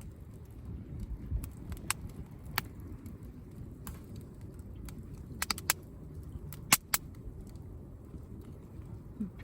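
Wood campfire crackling: scattered sharp pops, a quick cluster past the middle and the loudest two a little later, over a steady low rumble.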